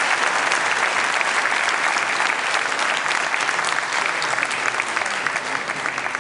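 Audience applauding, many hands clapping together, slowly easing off toward the end.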